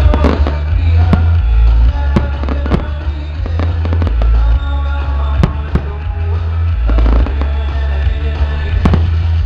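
Fireworks going off in irregular sharp bangs over loud music with a heavy bass line.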